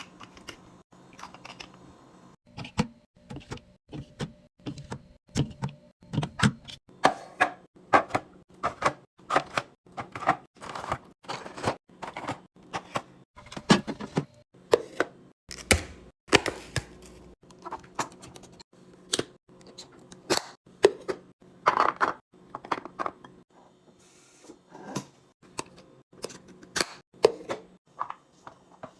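A fast, uneven run of clicks, taps and knocks, about two or three a second: packaged items and containers being handled and set down while a fridge is restocked.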